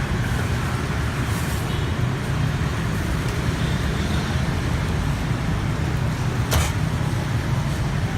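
Steady rumble of passing road traffic, with one sharp click about six and a half seconds in.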